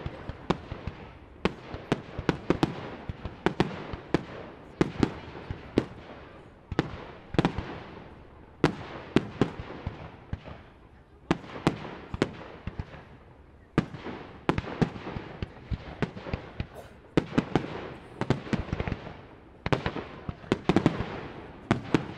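Aerial fireworks shells bursting in quick succession, sharp bangs coming several a second in clusters, each echoing as it fades.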